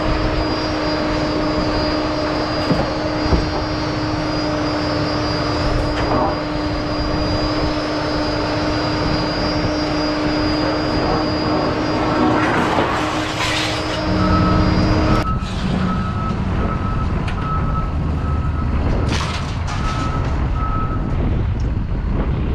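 Vehicle running with a steady hum that cuts off about two-thirds of the way in, followed by a repeated high beeping for several seconds.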